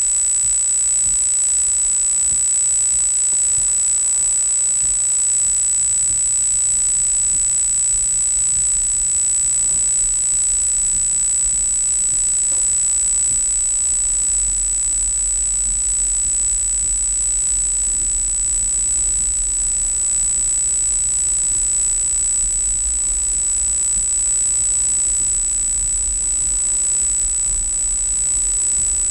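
Steady high-pitched electronic whine from the dash camera's recording, unbroken, over a faint hiss and a low rumble from the car that grows stronger about halfway through.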